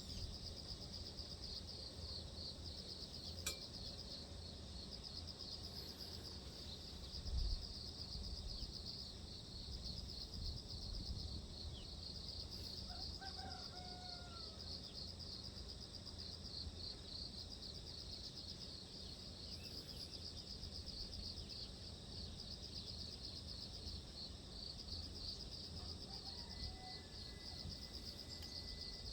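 A steady insect chorus, like crickets, trilling in rapid pulses, over a low rumble, with a brief bird call about thirteen seconds in.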